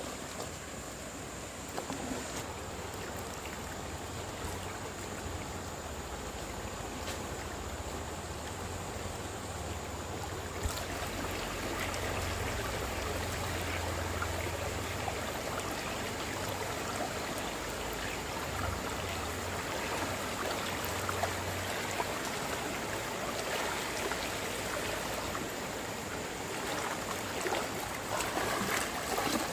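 Flowing stream water, a steady rush of noise, with a few sharper knocks or splashes near the end.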